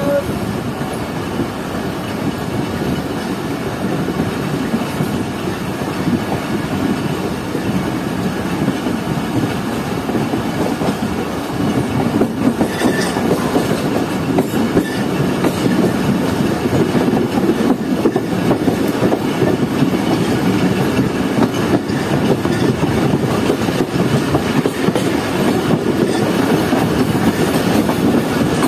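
A passenger train's wheels rolling over the track as the train accelerates from walking pace to about 37 km/h, with the clickety-clack of rail joints, heard through an open coach window. The rumble gets louder about halfway through as the train picks up speed.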